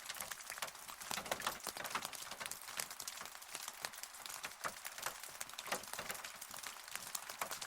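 Rain falling, with many separate drops striking close by at an irregular pace over a steady hiss.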